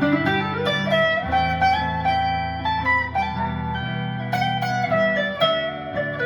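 Guitar playing an instrumental break in a folk song: a picked melody of single notes stepping up and down over held bass notes.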